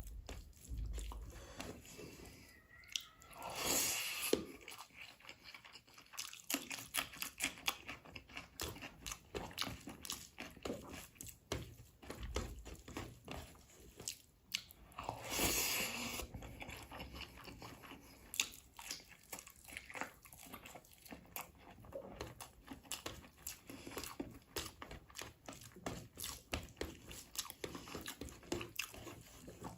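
Close-up chewing and biting sounds of a person eating a meal of rice with chicken leg curry and egg curry, made up of many small clicks and crunches. Louder, longer bursts come about four seconds in and again about fifteen seconds in.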